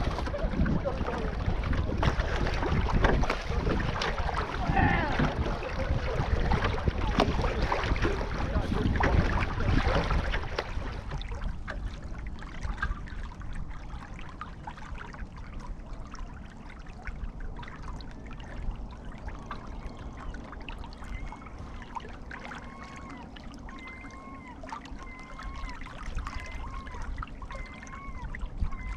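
Water rushing and splashing along a sailing canoe's hull, with wind on the microphone, for about the first ten seconds, then settling to quieter lapping. In the second half a faint short squeak repeats about once a second.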